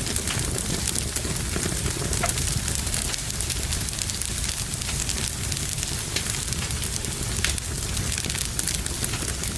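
Fire burning in a fireplace: a steady low rumble of flames with constant crackling and a few sharper pops.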